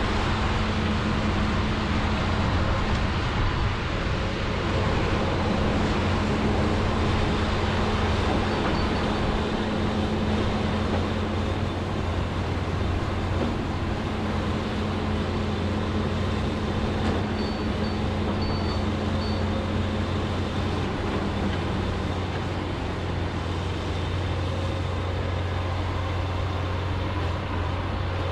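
John Deere 210G excavator's diesel engine running steadily under working load as it digs, a constant engine drone with no pauses.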